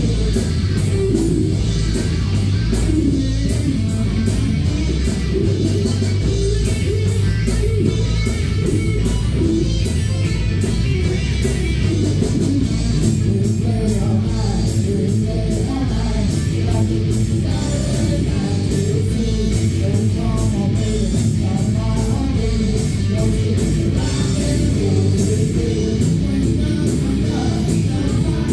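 Live rock band playing a loud song: guitar and bass over a steady drum beat with cymbal hits, and a voice singing.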